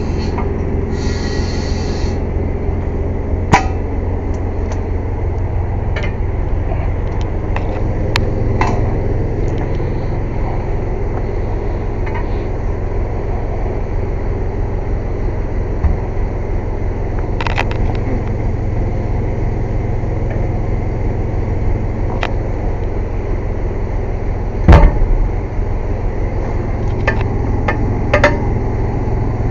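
Air compressor running with a loud, steady low rumble, with scattered clicks and knocks over it and one louder knock near the end.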